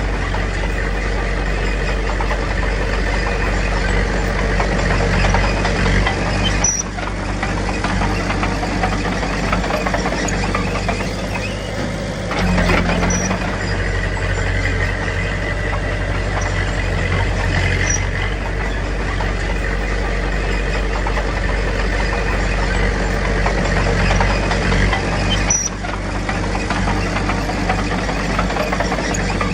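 Diesel engine of a Komatsu D21P bulldozer running steadily while working, with two brief dips in level.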